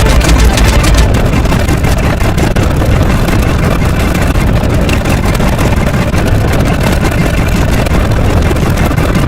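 Loud, steady engine-like rumble with most of its weight in the low end, holding without a break.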